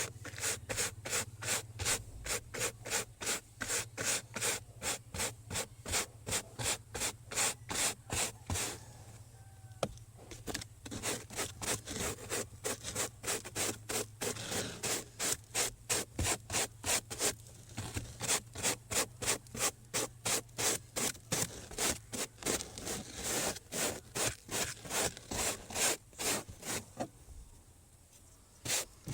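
Rapid rhythmic scrubbing by hand, about three back-and-forth strokes a second, during manual cleaning of a car, with brief pauses about nine seconds in and near the end.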